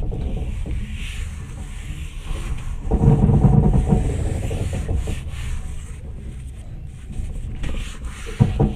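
Steady rumble and rattle of a moving train, heard from inside the passenger carriage, with a louder swell about three seconds in.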